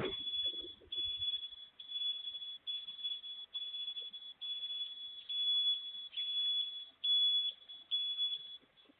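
Garbage truck's reversing alarm beeping, a high steady beep repeated about once a second, stopping shortly before the end. A brief thump at the very start.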